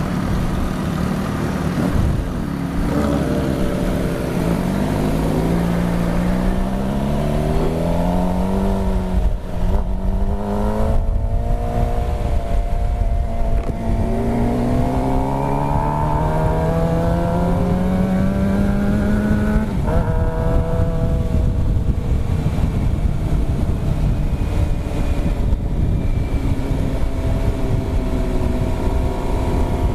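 Sport motorcycle engine pulling hard through the gears: its pitch climbs, drops at each upshift, and climbs again. The longest pull runs for about six seconds and ends sharply about two-thirds of the way through. Heavy wind rumble is on the microphone throughout.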